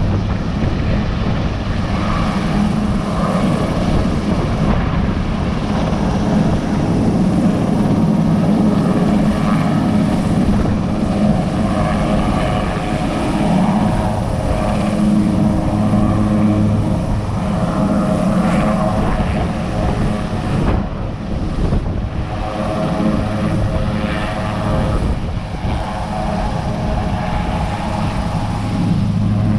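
Sikorsky S-61 helicopter in flight on its landing approach: the twin turboshaft engines and main rotor make a loud, steady drone with a low hum that swells and eases a little.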